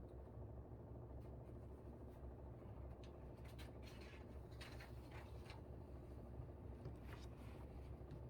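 Low, steady hum of a room air conditioner, with faint short scratches and rustles of pen and paper at a desk through the middle of the stretch.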